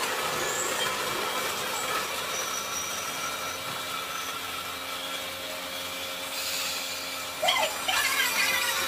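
Electric train running slowly through a track junction: a steady rolling noise with a faint whine. Near the end come brighter wavering squeals and a few sharper clanks.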